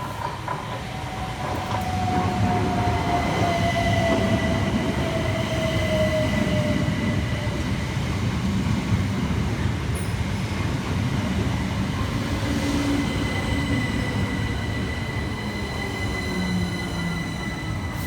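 Southern Class 377 Electrostar electric multiple unit running into the station and slowing, with a falling whine over the first several seconds and a thin high steady tone above a rumble of wheels on rails.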